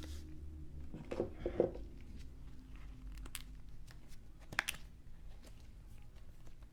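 Trading cards and their plastic packaging being handled: a few short crinkles about a second in and sharp clicks a little later, over a low steady hum.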